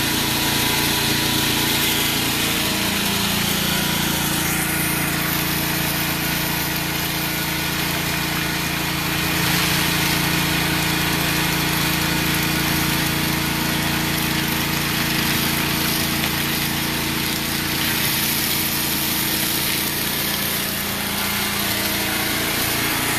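Small gasoline engine of a pressure-washing rig running steadily, with the loud hiss of high-pressure water spray on pavement that swells and fades as the spray moves.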